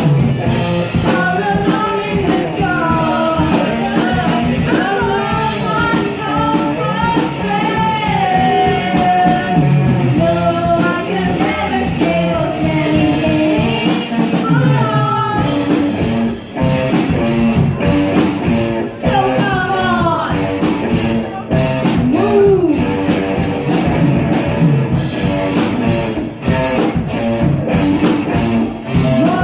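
Rock music: a voice singing over guitar, bass and drums. About halfway through the drum hits come through sharper, in a steady beat.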